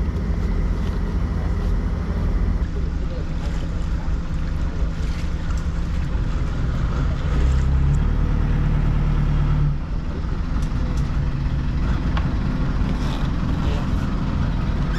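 A boat's engine running with a steady low hum; about eight seconds in it runs harder for a couple of seconds, then eases back abruptly.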